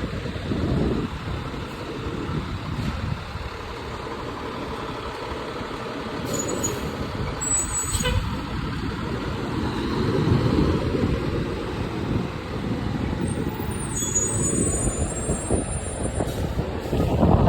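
Fire truck's diesel engine running, the rumble swelling and easing as it moves.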